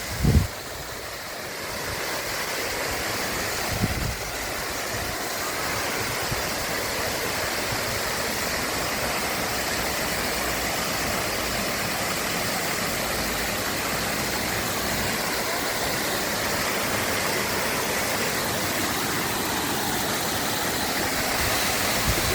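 Steady rushing of water, as of a stream or waterfall, with a brief low thump at the start and another about four seconds in.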